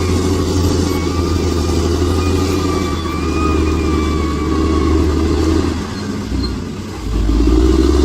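Bulldozer's diesel engine running steadily, with a thin wavering whine above it. The engine sound dips about six seconds in, then comes back louder about a second later.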